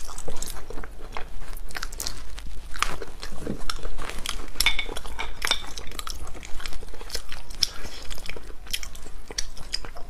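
Close-miked eating of spicy sea snails: chewing and biting the snail meat, heard as many short, crisp wet clicks and smacks of the mouth.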